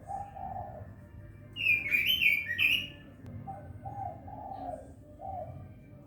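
Pekin robin (red-billed leiothrix) singing: a loud, fast warbled phrase of high notes about a second and a half in, with softer, lower repeated notes before and after it.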